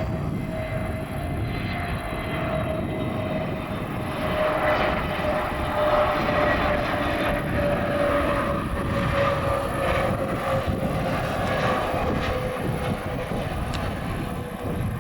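Jet airliner's engines passing close by, with a broad rush and a steady tone that slowly drops in pitch. It grows louder about four seconds in and eases off near the end.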